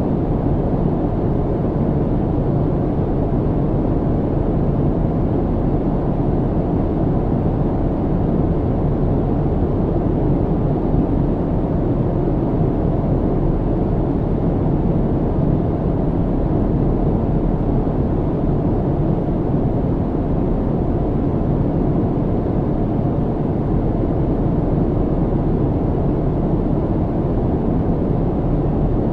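Steady airplane cabin noise in flight: an even, unbroken low drone with most of its weight in the bass and low mids.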